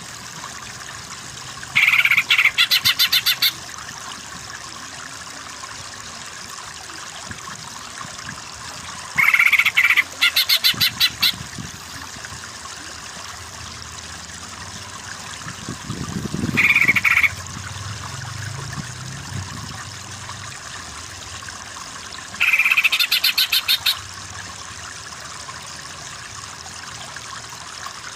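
A songbird's call from a cucak ijo masteran track: a short loud note that breaks into a fast rattling trill, repeated four times a few seconds apart over the steady sound of a running stream.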